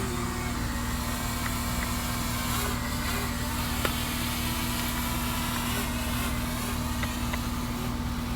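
Camera drone's propellers whirring in a steady hum just after take-off, the motors holding an even pitch as it hovers.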